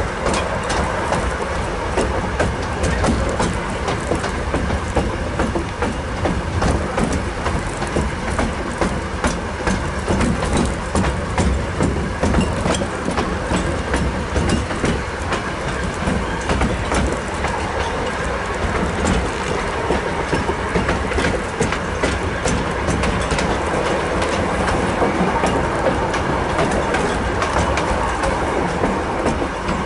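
Narrow-gauge passenger train running along the track, heard from aboard a coach: a steady rumble, with the wheels clicking and clattering continually over the rail joints.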